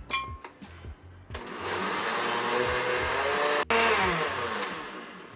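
Kitchen blender running for about three seconds while blending the lemon carlota filling; it starts about a second in, then its pitch drops and it winds down near the end.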